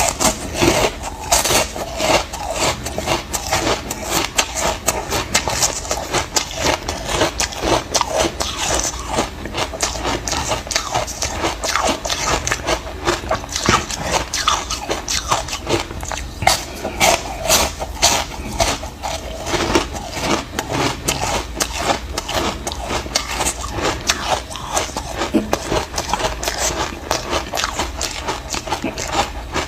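Frozen ice chunks dusted with matcha powder being bitten and chewed close to the microphone: a dense, continuous run of loud crunching and cracking.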